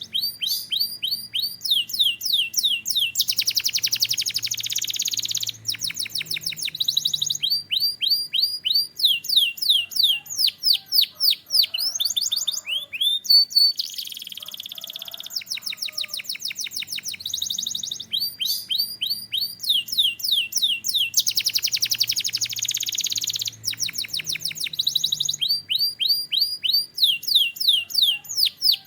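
A canary singing: long runs of quick, evenly repeated down-slurred notes, changing from one note type to the next, broken three times by a dense, very fast trill.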